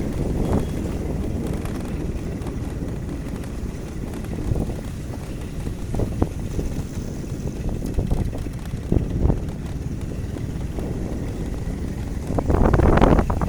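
Wind buffeting the microphone over steady low traffic and road noise, with a few brief knocks and getting louder near the end.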